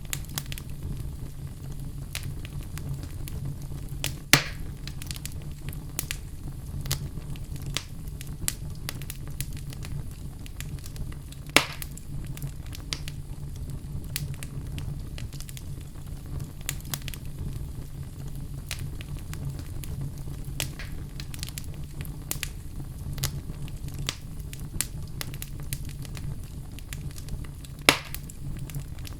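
Wood fire crackling in a fireplace: a steady low rumble of flames with frequent small crackles of burning logs, and three louder sharp pops spread through.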